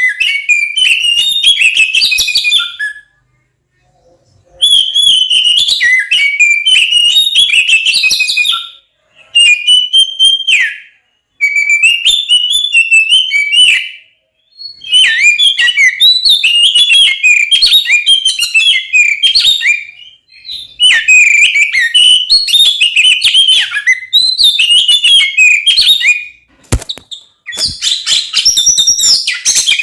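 Oriental magpie-robin (kacer) singing loudly in its fast, fierce fighting song: rapid, jumping whistled phrases in bursts a few seconds long, broken by short pauses. A single sharp click sounds near the end.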